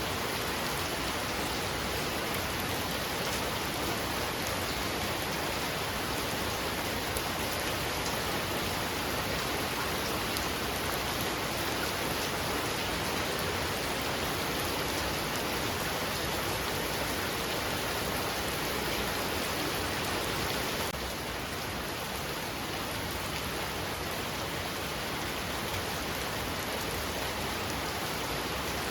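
Heavy rain pouring down steadily as a dense, even hiss, easing slightly about two-thirds of the way through.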